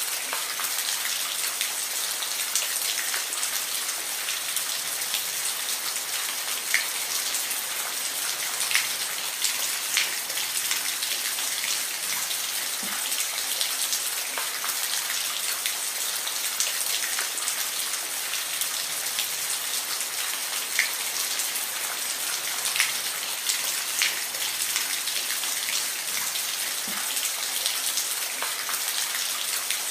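Steady rainfall: an even hiss of rain with individual drops ticking sharply here and there on a hard surface.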